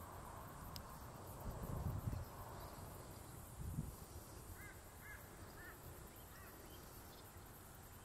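Faint outdoor ambience. Around the middle, a small bird in the background gives four short chirps about half a second apart. Before that there are two brief low rumbles.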